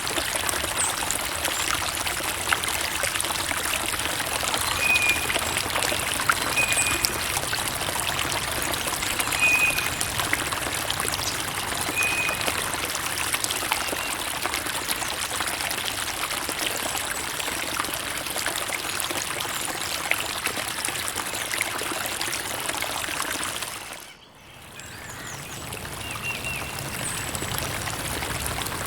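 Creek water trickling and pouring steadily, with a few short high chirps in the first half. Near the end the water briefly fades almost out and then swells back in.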